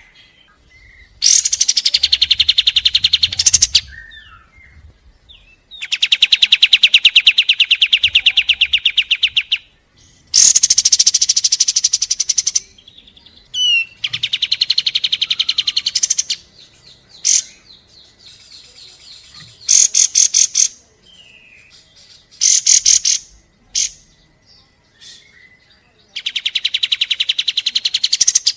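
Kapas tembak songbird singing its rapid-fire 'tembakan' trills: bursts of very fast repeated high notes, each lasting two to four seconds, with short single calls in the pauses between.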